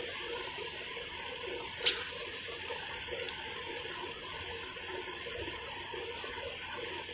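Steady hiss of running, trickling water, with a sharp click about two seconds in and a fainter one a second or so later.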